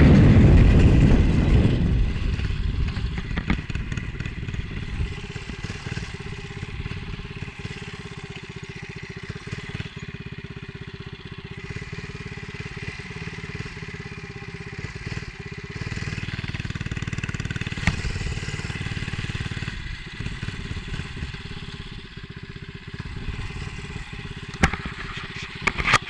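Small minibike engine running at low speed, with wind buffeting the helmet camera's microphone. The wind rumble is loudest in the first two seconds, then eases to a steadier level, with a few sharp knocks near the end.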